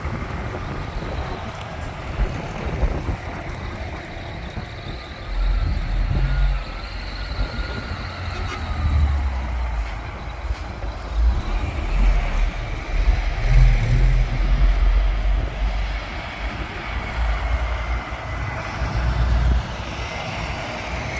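Heavy truck diesel engines running as lorries drive by, with a deep rumble that grows louder from about five seconds in.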